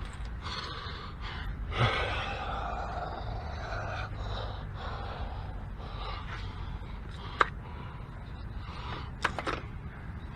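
Handling noise from hand work on a car's rear brake and ABS sensor area over a steady background hum, with a few sharp clicks near the end.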